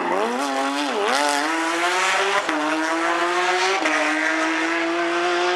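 Porsche rally car's flat-six engine at full throttle. The revs dip twice in the first second and a half, then climb steadily as the car accelerates, with an upshift about two and a half seconds in and another about four seconds in.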